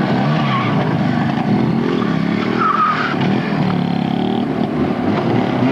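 Soviet-era motorcycle engine revving up and down during stunt riding, its pitch rising and falling over and over.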